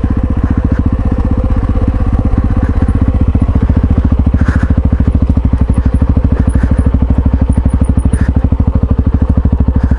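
Yamaha XT660Z Ténéré's single-cylinder engine running at a steady speed, with an even, rapid beat. A couple of faint clicks come through about halfway and near the end.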